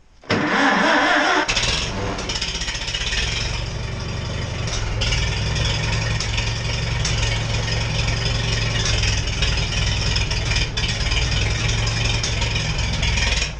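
Electric starter cranking the Farmall M tractor's four-cylinder gasoline engine on a cold start after months of sitting, with the choke on. The starter engages with a brief whine, then turns the engine over steadily without it taking hold, and the cranking stops suddenly near the end.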